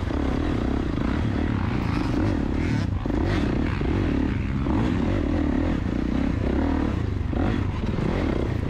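KTM two-stroke dirt bike engine running under throttle as the bike rides through deep, muddy ruts.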